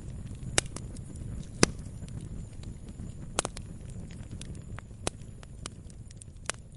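Log fire crackling: irregular sharp pops and snaps, two of them louder near the start, over a steady low rumble of burning.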